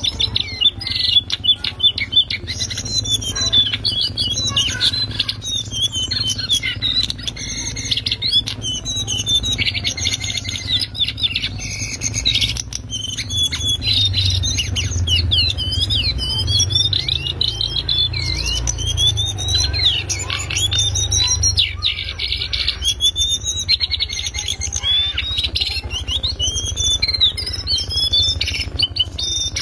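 Cingcoang coklat, a shortwing, singing a fast, unbroken twittering song of high chirps and whistles that sweep up and down in pitch, with a steady low hum underneath.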